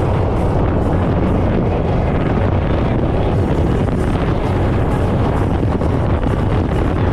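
900-horsepower speedboat running at speed, a steady low engine drone under heavy wind buffeting the microphone.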